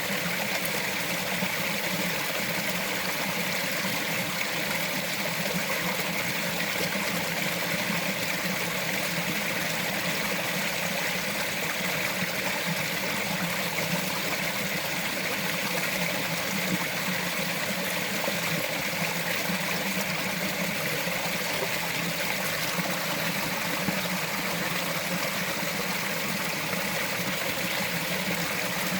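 A small mountain forest stream running steadily, water trickling and babbling over rocks.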